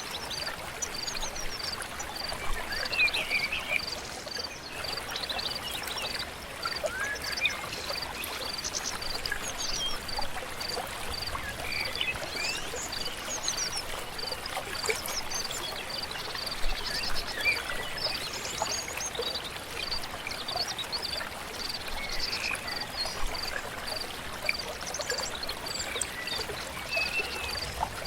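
Forest dawn soundscape: a river flowing steadily, with birds singing in short scattered chirps and whistles over it. A high, even pulsing call repeats about twice a second throughout.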